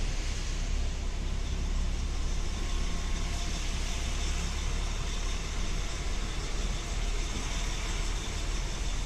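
Truck's diesel engine running, heard from inside the cab: a steady low rumble with a hiss above it while the rig moves slowly.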